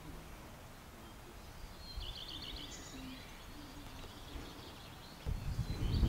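Small songbird chirping outdoors: a quick run of high chirps about two seconds in, then fainter calls, over faint background noise. About five seconds in, a loud low rumbling noise starts abruptly.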